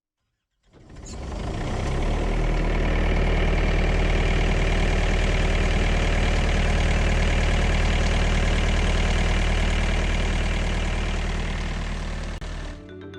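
Thermo King refrigeration unit's diesel engine running steadily on a refrigerated semitrailer. It fades in about a second in and cuts off shortly before the end.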